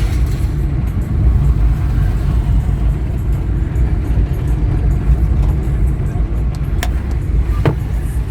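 Car on the move: a steady low rumble of engine and road noise, with two short sharp clicks near the end.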